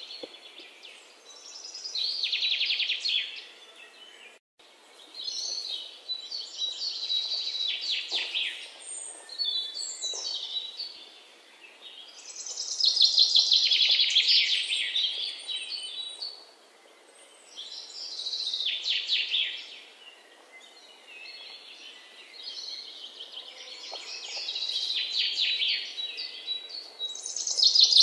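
Small birds chirping in rapid trills, in bursts of a second or two that come every few seconds, over a faint steady background hiss.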